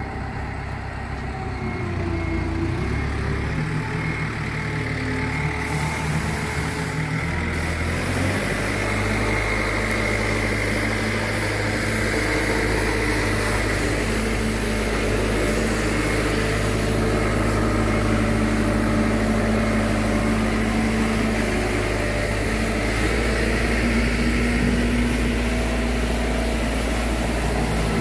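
An engine running steadily, its note shifting about two seconds in and again around eight seconds in, then holding steady.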